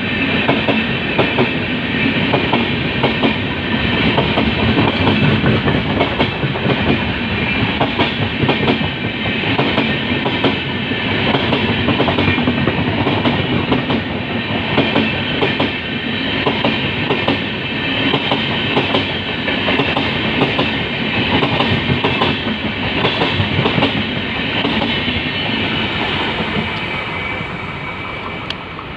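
Passenger train of LHB coaches running past on the track: a steady rumble of wheels on rail with rapid clickety-clack over the rail joints. It fades over the last few seconds as the tail of the train passes.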